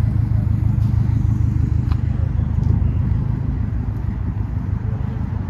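Car engine running with a steady low rumble that eases slightly a little over halfway through.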